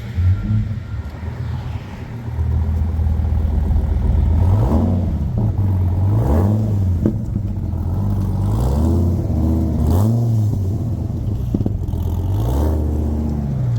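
A car engine running low and deep, revved several times as the car pulls away, its pitch rising and falling with each rev.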